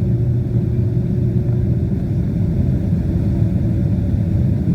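Steady low rumble of a Boeing 767-300ER airliner's engines and airflow, with a faint steady hum in it.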